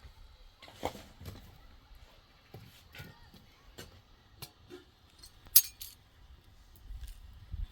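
Scattered light clicks and clinks of small hard objects being handled, with one sharper click about five and a half seconds in.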